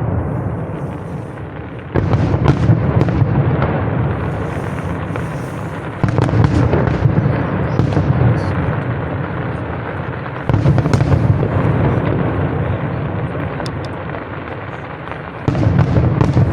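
Aerial firework shells bursting about every four seconds. Each loud boom rolls off into a long fading rumble, with scattered sharp crackles in between.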